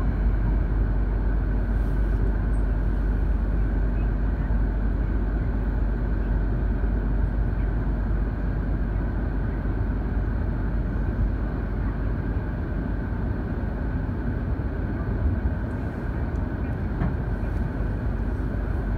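Steady rumbling running noise inside a Tohoku Shinkansen E2-series car as the train draws to a stop at a station platform, easing off slightly after the middle.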